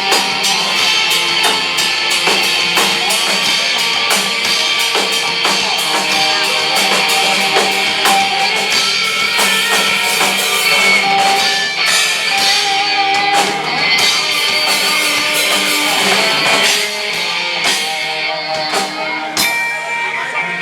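Live rock band playing a song: guitars and a drum kit, with the playing thinning out in the last few seconds.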